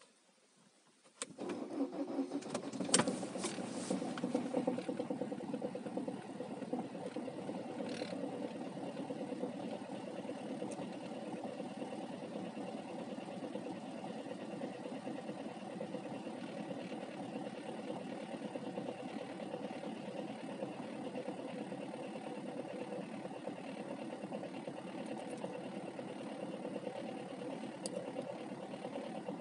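Opel Corsa 1.3 diesel engine cold-starting at −11 °C: it catches suddenly about a second in, runs louder for the next few seconds, then settles into a steady idle.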